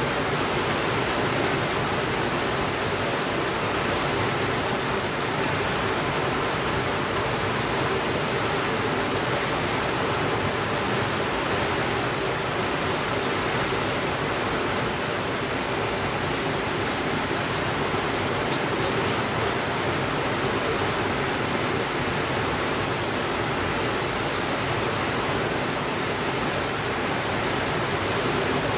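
Steady, even rainfall: a continuous hiss of rain with no changes in level and no thunder.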